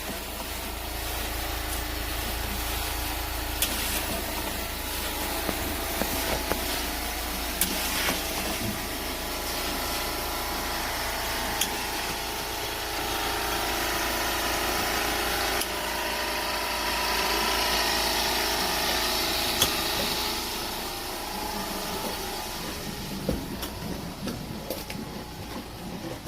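A machine's motor running steadily, with scattered sharp clicks and knocks.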